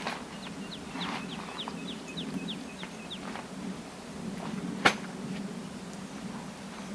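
A songbird singing a rapid run of about a dozen short downward-sliding chirps, roughly four a second, then stopping; a single sharp click sounds about five seconds in, over a steady low hum.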